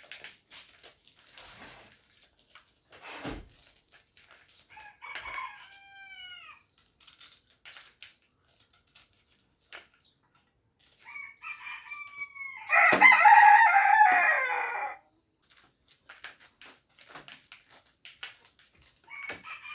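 A rooster crowing: a fainter crow about five seconds in, then a long, loud crow from about eleven to fifteen seconds in. Between the crows come light, scattered clicks and scrapes from corn kernels being stripped off the cob by hand.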